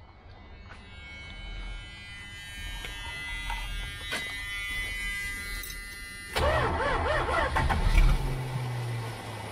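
Dodge 360 four-barrel V8 with a Holley carburettor being started: a steady high whine for about six seconds, then the engine catches loudly and runs. The Holley is hard to start right away.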